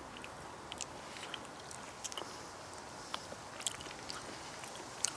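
Faint steady background noise with scattered small, irregular clicks and ticks.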